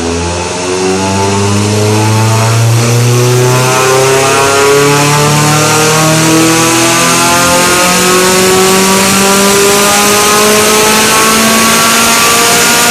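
1995 Toyota MR2 SW20's 3S-GE two-litre four-cylinder engine with a full exhaust, loud, pulling under load on a dyno: its note rises slowly and steadily as the revs climb.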